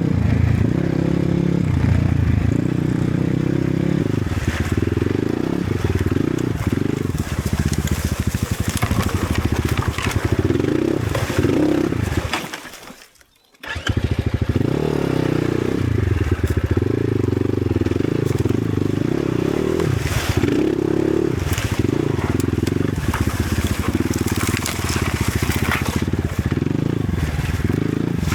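Enduro motorcycle engine running under load, revving up and down as it rides over rough ground, with scattered knocks and rattles. It cuts to near silence for about a second around halfway, then resumes.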